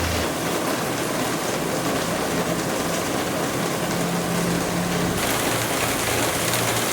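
Heavy rain pouring steadily, with a low hum underneath; the high hiss eases slightly about five seconds in.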